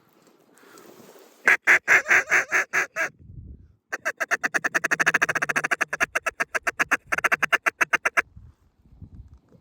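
Mallard duck call blown close by: a run of loud quacks at about six a second, then, after a short pause, a long fast rattling chatter of about a dozen notes a second, the feed call used to coax circling mallards into the decoys.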